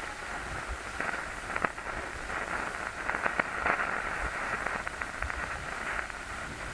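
Steady, mid-pitched static hiss like a detuned radio or TV, crackling with scattered sharp pops and clicks from about a second in until near the end.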